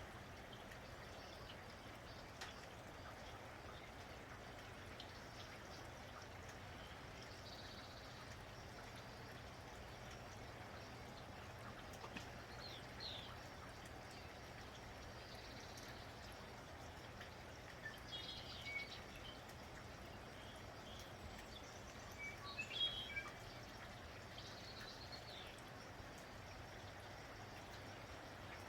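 Steady light rain falling, with small birds chirping now and then, a few short calls in the second half.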